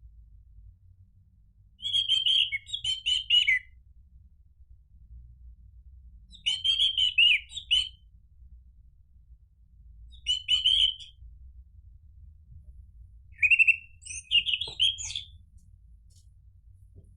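Orange-headed thrush (anis merah) singing four short phrases of rapid, varied whistled notes, a few seconds apart. A faint low hum runs underneath.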